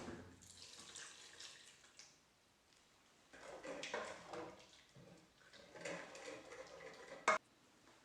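Water running and splashing in irregular spells, with one sharp knock near the end.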